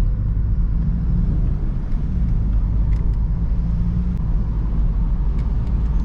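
BMW car driving at speed, heard as a steady low rumble of engine and road noise, with a few faint ticks.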